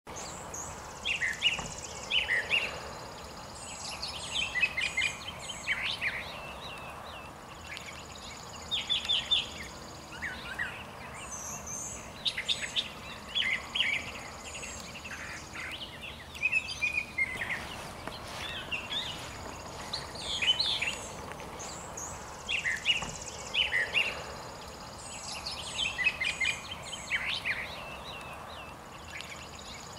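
Songbirds singing, short chirping phrases repeating every few seconds, with a thin high steady note coming and going between them over a faint even background hiss.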